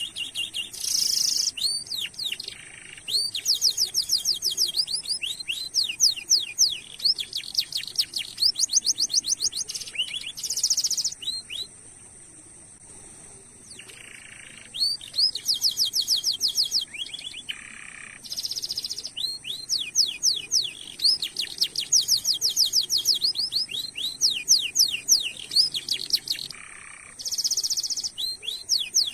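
Domestic canary singing long rolled phrases of rapid, repeated high chirps mixed with short buzzy notes, with a pause of about two seconds midway.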